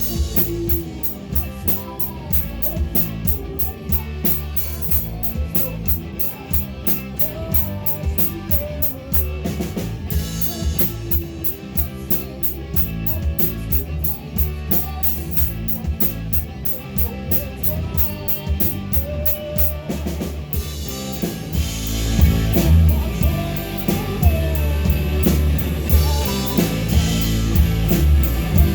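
Live rock band playing with no vocals: a drum kit keeping a steady hi-hat beat over guitars and bass. About two-thirds of the way through, the band kicks into a louder, heavier section.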